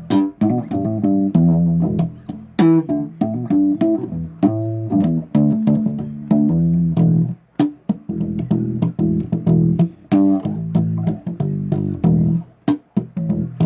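Electric bass guitar played solo: a riff of plucked single notes, with a few sharp percussive attacks.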